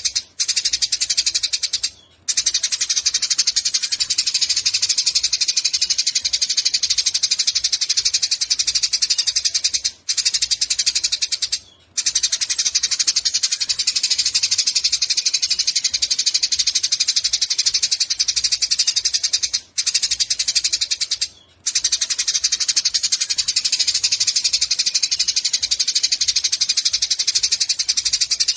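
Sparrow (burung gereja) chirping without a break in a rapid, dense, high chatter, stopping for a moment a few times.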